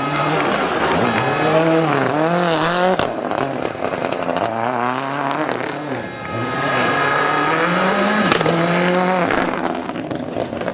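Rally car engine revving hard, its pitch rising and falling rapidly under the throttle in two long bursts, with a brief drop about six seconds in. A few sharp cracks sound over it.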